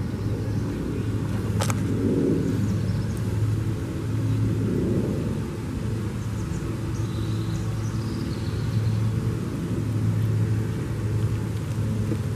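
A car engine idling close by, a steady low rumble, with a single sharp click about a second and a half in.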